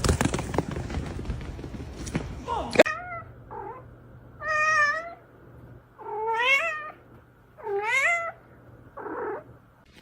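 A domestic cat meowing repeatedly, about six calls a second or so apart, several of them rising in pitch. Before them come a few seconds of noisy rustling with some sharp clicks.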